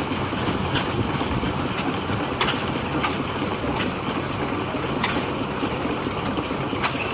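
An engine running steadily with a low rumble, scattered sharp clicks and a fast-repeating high chirp.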